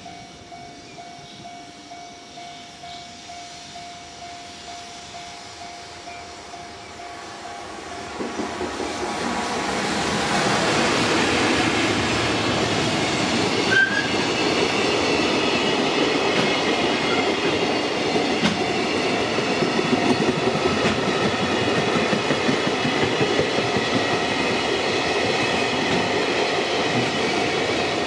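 JR Freight container train approaching and passing close by: faint at first, growing louder from about eight seconds in, then a steady rumble and clatter of the wagon wheels on the rails with a high-pitched ringing over it.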